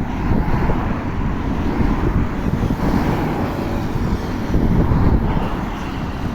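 Wind rumbling and buffeting on the microphone of a moving bicycle, mixed with road traffic noise.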